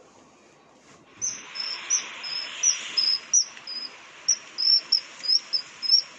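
A small bird singing a run of short, high chirping notes, about two or three a second. They start about a second in, over a steady hiss of background noise.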